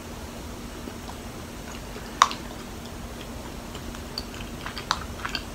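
Close-up chewing of a soft, sticky rice dumpling (matcha dango), with scattered sharp mouth clicks, the loudest about two seconds in and a cluster near the end, over a faint steady hum.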